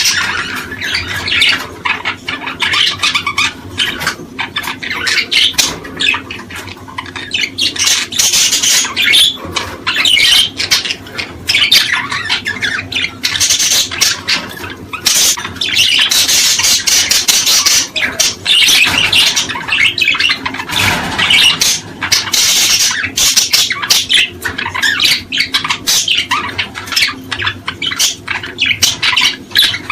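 Many small birds calling and chirping at once, a dense, continuous chatter of quick high calls and squawks overlapping without pause.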